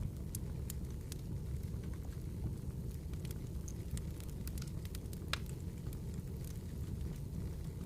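Campfire burning: wood crackling with scattered sharp pops, one louder crack about five seconds in, over a steady low rumble.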